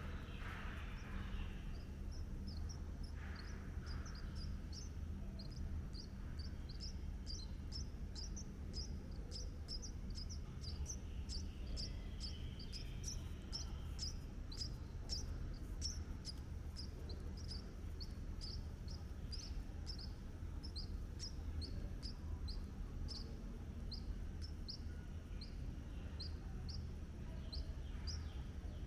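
A bird's short high chirps, repeated about three times a second, over a steady low hum.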